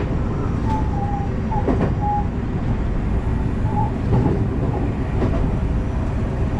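JR West electric train running on the rails, heard from inside the front car: a steady rumble of wheels on track with a few knocks, about three in all.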